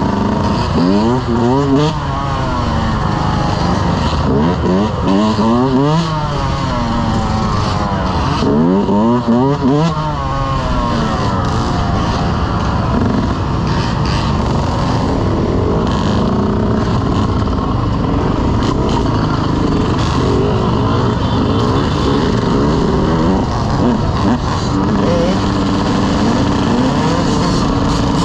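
Dirt bike engines revving and running, with several sharp rising revs in the first ten seconds, then a steadier engine drone.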